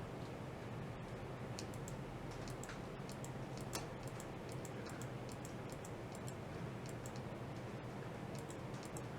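Irregular light clicks and ticks, several a second, over a steady low hum and hiss.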